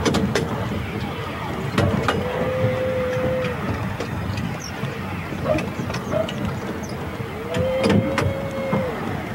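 Riding sound of a narrow-gauge train in motion: a steady rumble with scattered sharp clacks as the wheels pass over the track. A long, steady, mid-pitched tone sounds twice, about two seconds in and again near the end.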